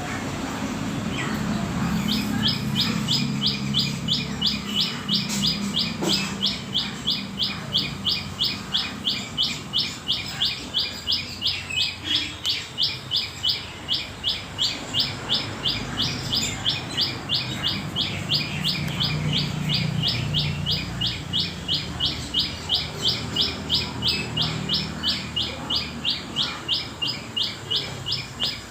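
A bird chirping in a fast, even series of short high chirps, about three a second, starting about two seconds in.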